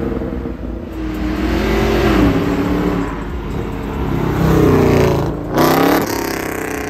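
Cars accelerating past one after another, their engines revving up in rising sweeps. The loudest rev comes about five seconds in, from a Ford Mustang pulling away.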